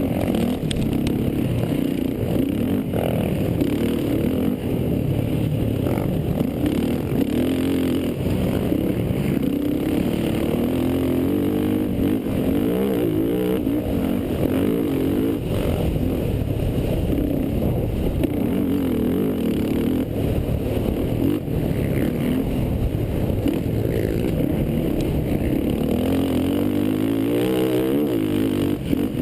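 Racing quad (ATV) engines running hard, revving up and down, their pitch rising and falling again and again.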